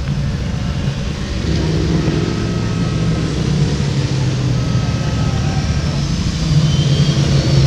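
Racing motorcycle engines running on the circuit, a steady low sound that grows louder about six and a half seconds in.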